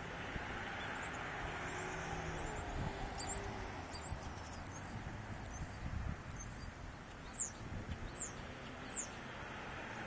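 A bird's high, thin chirps: a run of about ten short falling notes, evenly spaced, starting about three seconds in and stopping shortly before the end, over a steady background hiss.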